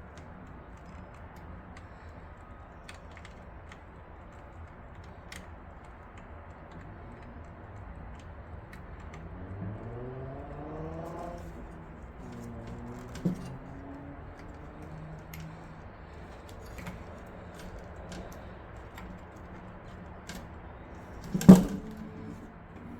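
Small clicks and light rattles of computer parts and cables being handled, with a short rising squeak about ten seconds in and a sharp knock near the end.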